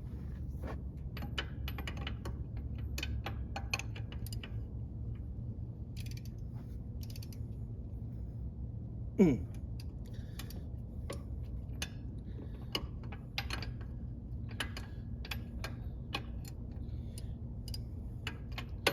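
Hand ratchet wrench clicking in irregular runs while working a 7/8 nut, over a steady low hum. About halfway through comes one short, loud squeal that falls in pitch.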